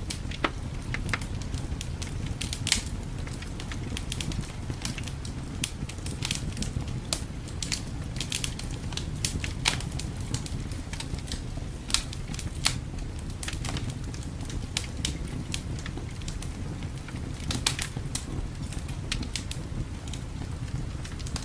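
Wood fire in a fireplace crackling, with irregular sharp pops and snaps scattered throughout, over a steady low rumble of winter wind.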